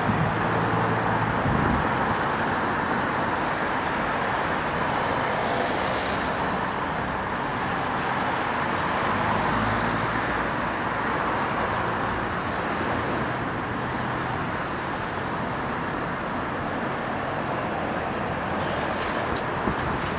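Steady road traffic: cars and buses passing, with a low engine hum in the first couple of seconds and a few faint clicks near the end.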